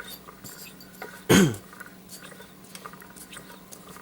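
Light metallic clicks and ticks of the converted engine's slide-valve linkage and parts being handled, with one brief loud sound about a second in that drops sharply in pitch.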